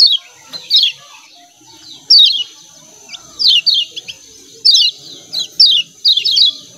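Kecial kuning white-eyes giving rapid 'ciak ciak' chirping calls: short clusters of two to four quick, downward-sliding chirps, repeated every half second to a second, over a faint steady high hiss.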